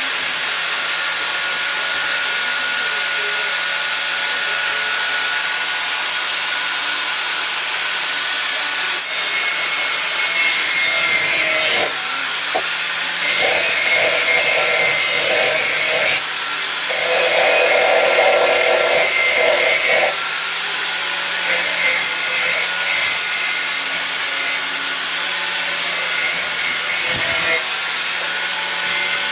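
Electric grinder running steadily while a bolo (itak) blade is ground on it. From about nine seconds in, the blade is pressed against the wheel in five or six passes of two to three seconds each, each pass adding a loud, harsh grinding hiss over the motor's hum.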